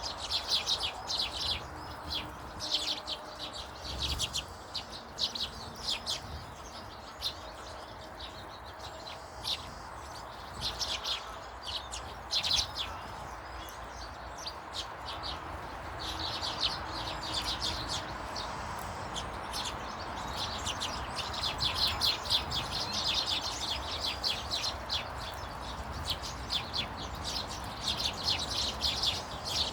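Small garden birds chirping, many short high calls in quick runs that come and go throughout, over a steady faint background rush.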